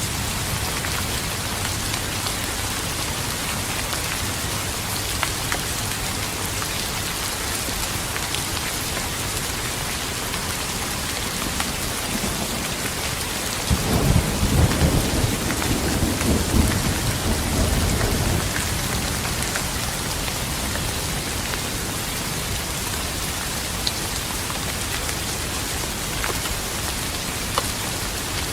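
Steady heavy rain with a roll of thunder about halfway through that cracks in suddenly, rumbles low for several seconds and fades.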